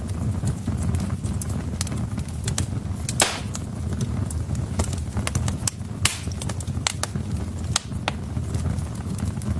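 Wood fire burning in a fireplace: a steady low rumble with frequent sharp crackles and snaps, and two louder pops about three and six seconds in.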